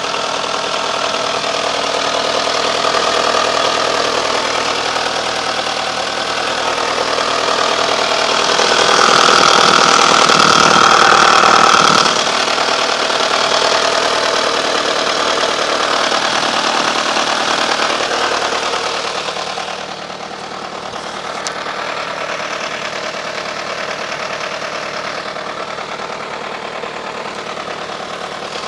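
Fiat Stilo 1.6 engine (182B6000) running unevenly, with a noise from its broken INA/Litens timing-belt tensioner pulley; the timing belt has jumped one tooth. The noise grows louder for a few seconds about a third of the way in, then eases off a little about two-thirds in.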